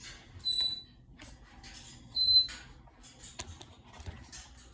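Two short high-pitched beeps about a second and a half apart, followed by a few light clicks and knocks.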